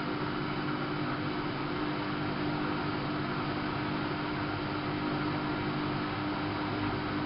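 Whirlpool AWO 5346 front-loading washing machine running: a steady mechanical hum with a held tone under an even rushing noise, with no breaks.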